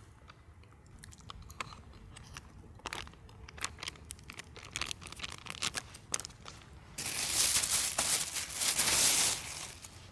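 Scattered light clicks and crackles, then about seven seconds in a loud stretch of dense crunching and crinkling lasting nearly three seconds, which stops abruptly.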